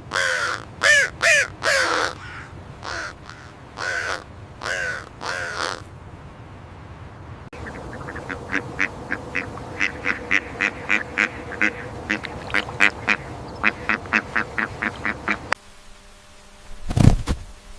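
Animal calls: a few loud, harsh, pitched calls in the first six seconds, then a long run of short repeated calls, about two to three a second. These stop suddenly and are followed by a single loud low boom near the end.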